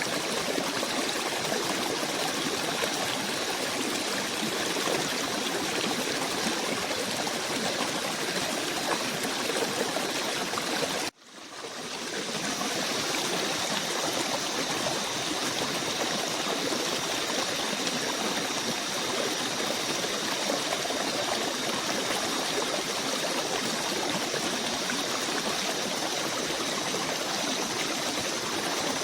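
Steady rushing and trickling of a flowing stream. About eleven seconds in it cuts out abruptly and fades back in within a second, a splice in the recording. After that a faint, steady high whine sits over the water.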